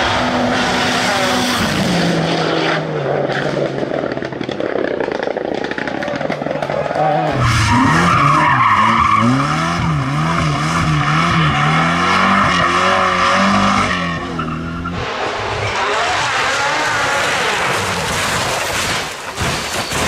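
Rally car engines at full throttle, the pitch climbing and dropping through gear changes, over tyre and loose-surface noise. The sound changes abruptly about seven and fifteen seconds in.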